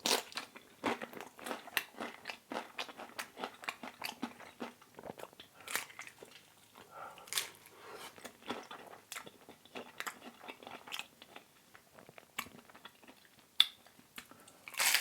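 Close-up chewing of a thin-crust seaweed pizza: crisp, irregular crunching and mouth sounds, with a louder bite near the end.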